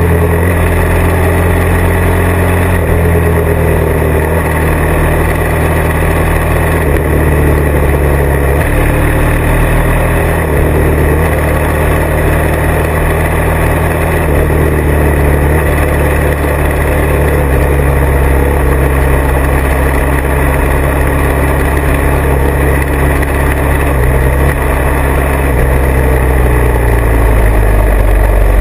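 Motorcycle engine running under way, loud and steady, its pitch stepping up and down with the throttle and dropping lower near the end.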